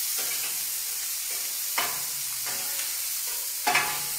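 Shrimp sizzling on a hot enamelled plancha while metal spatulas stir them, with two louder scrapes or clinks of the spatula on the plate, about two seconds in and again near the end.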